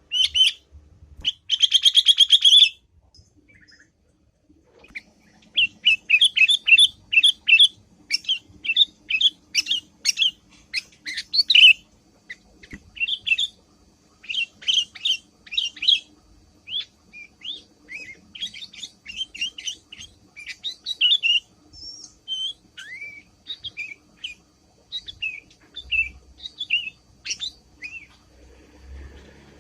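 Sooty-headed bulbul (kutilang) chattering: a short, fast trill about two seconds in, then from about five seconds on a long run of quick, high chirps and brief whistled notes.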